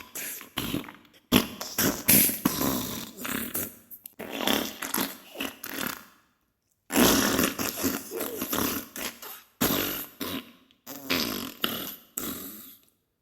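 Diarrhea sound effect: a string of sputtering fart bursts, irregular in length, broken by a short pause about halfway through.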